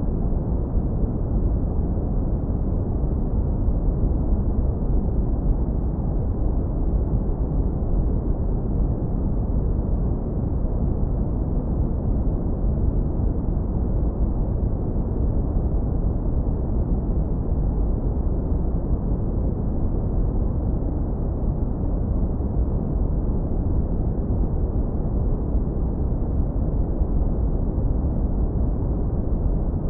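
Deep brown noise, low-pass filtered so that only a warm, low rumble remains. It runs steady and unchanging, with no events in it.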